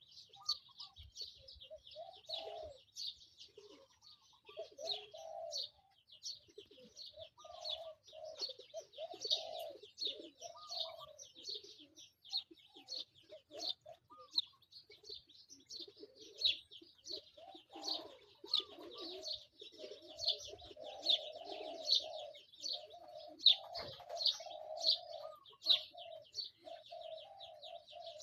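Many birds chirping rapidly and continuously, with lower-pitched calls mixed in that come and go and then run almost unbroken through the last several seconds.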